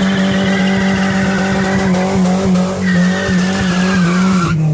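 Mini truck doing a burnout: the engine is held at high revs while the rear tire spins and squeals, and the revs fall off near the end.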